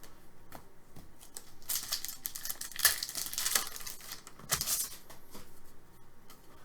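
Crinkling and tearing of trading-card pack packaging as it is handled, in two bursts: a longer one from about two to four seconds in and a short one near five seconds.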